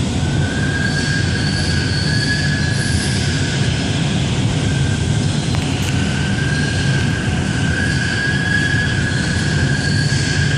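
Baykal BLSN 3000W fiber laser cutting machine running: a steady loud hiss and rumble, with a high whine that swells and fades every few seconds.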